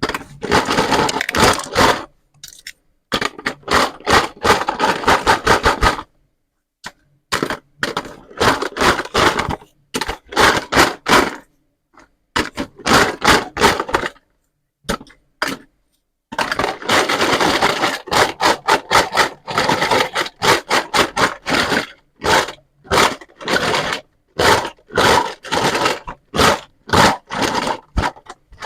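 Toy pizza and vegetable play set being handled, in bursts of rapid crackling and scraping clicks broken by sudden silent gaps.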